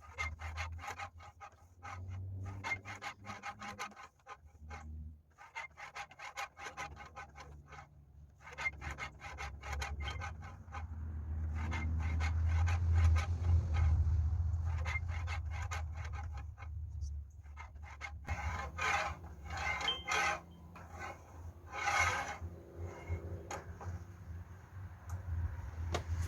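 Wet sandpaper on a fixed-angle sharpening jig's file head rubbing back and forth along a katana's edge, in runs of quick strokes with short pauses between them. A low hum runs underneath and is loudest midway.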